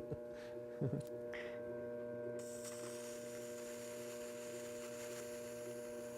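Electric potter's wheel motor humming steadily, with a short brief sound just under a second in and a faint high hiss joining partway through.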